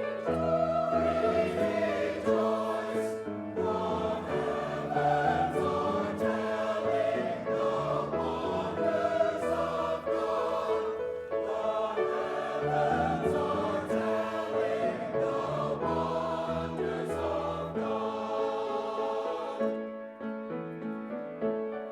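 A choir singing a sacred piece with instrumental accompaniment; a little before the end the voices stop and the accompaniment carries on alone.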